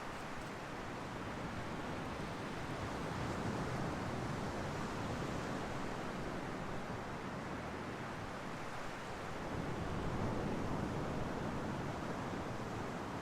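Ocean waves washing onto the shore: a steady rush of surf that swells a little about four seconds in and again about ten seconds in.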